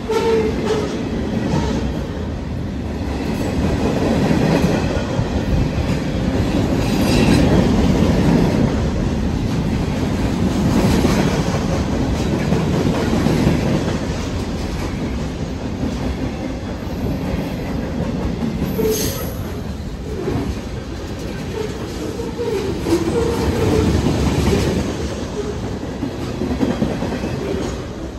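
Freight train cars rolling past close by with a steady rumble and wheels clicking over the rail joints. The noise swells and eases as the cars go by, with a few short wheel squeals now and then.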